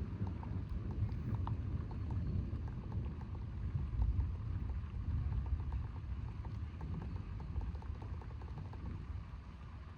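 Rolling thunder rumbling low, swelling about four seconds in and then slowly fading, with faint scattered ticks like raindrops.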